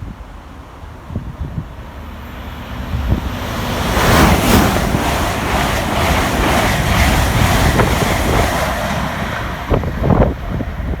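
Train passing close by: a loud rushing noise builds over a couple of seconds, holds, and eases near the end, with wind buffeting the microphone.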